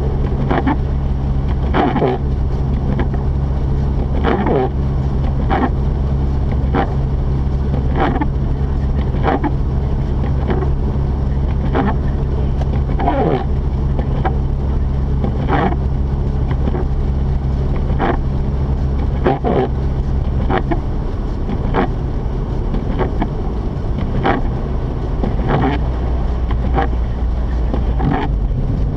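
Mazda RX-8's rotary engine droning steadily with road noise, heard from inside the cabin while driving. A short sound repeats about every 1.2 seconds throughout, and the engine note drops about three-quarters of the way through.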